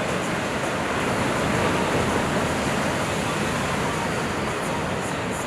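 Steady rushing noise of wind and ocean water on a surfer's head-mounted camera microphone, swelling a little about two seconds in.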